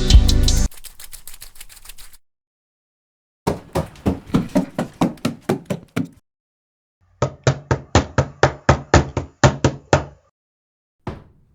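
Running footsteps, several separate recordings in turn: first a faint run, then two louder runs of quick footfalls, about four to five steps a second, with short silences between them. The last run has a heavier thud in each step. A bit of music ends just before the steps begin.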